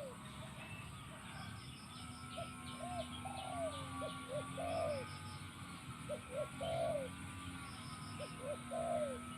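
Spotted dove decoy bird cooing, repeating its short phrases of low coo notes several times, with faint high chirps of small birds.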